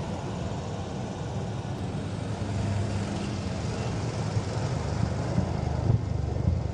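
Steady engine noise with a heavy low rumble, starting suddenly.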